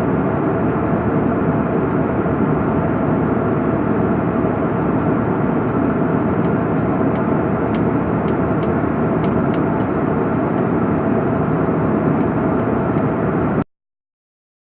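Steady noise of a jet airliner's passenger cabin at cruising altitude, with a few faint clicks. It cuts off abruptly to silence near the end.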